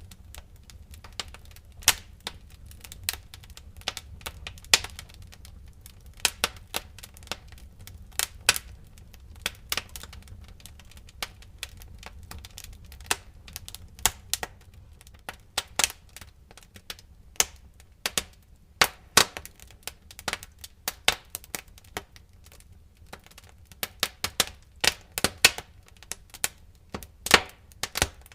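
Wood fire in a fireplace crackling: irregular sharp pops and snaps, sometimes in quick clusters, over a faint low rumble of the burning.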